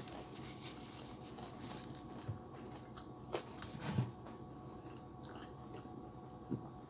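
Close-up eating sounds: chewing a mouthful of nasi biryani, with faint wet mouth clicks. A light knock comes about four seconds in as a plastic drink bottle is picked up, and another near the end.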